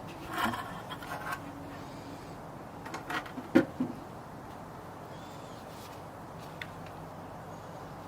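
Brief rubbing and scraping handling sounds in the first second and a half, then a few sharp knocks about three seconds in, the loudest near three and a half seconds, over a steady faint background hiss.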